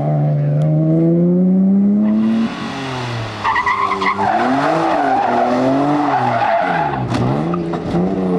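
Rally car engine revving hard, its pitch climbing for about two seconds before dropping off. From about three and a half seconds in the tyres squeal as the car slides, while the revs rise and fall.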